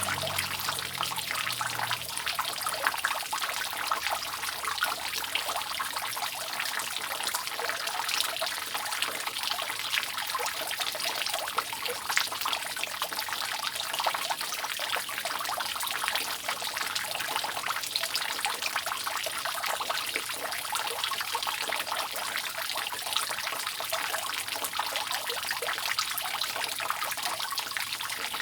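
Rainwater dripping and trickling steadily off a roof: a dense, continuous patter of drops.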